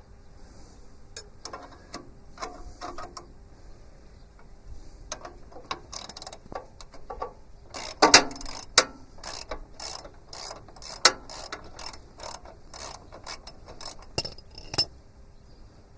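Socket ratchet clicking as a bolt on the tractor's loader/backhoe sub-frame is turned out. The clicks are irregular at first, then come faster and louder from about the middle, with a few sharper metallic clicks.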